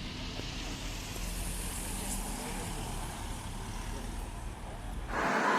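The BMW X5 M Competition's 4.4-litre V8 running at a low, steady rumble. About five seconds in, it gives way suddenly to a louder, brighter sound.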